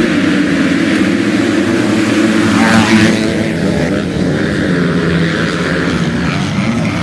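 Motocross bike engines running hard at high revs, steady throughout and loudest about three seconds in.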